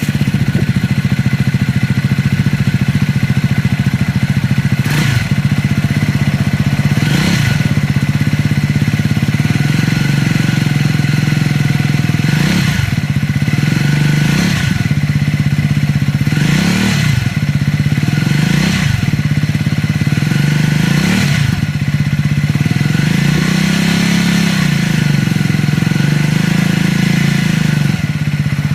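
Triumph 400 single-cylinder motorcycle engine idling just after a start, its throttle blipped about eight times in quick revs. The rider presents the sound as an abnormal engine noise.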